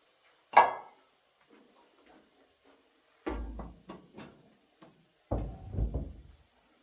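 Knocks and thuds of things being handled: one sharp knock about half a second in, then two bouts of heavy, low thumping with rattling, the first about halfway through and the second near the end.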